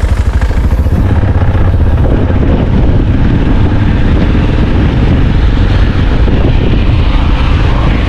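Motorcycle engine running as the bike is ridden: a loud, steady low drone with a fast, even pulse that smooths out after about two seconds.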